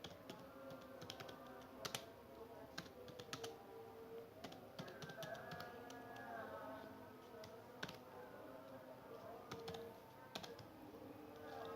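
Computer keyboard being typed on, with single keystroke clicks coming at an irregular, sparse pace, over faint background music.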